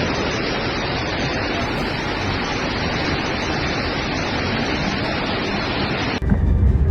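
Floodwater rushing, a steady, even noise of moving water. It cuts off suddenly about six seconds in and gives way to a louder low rumble.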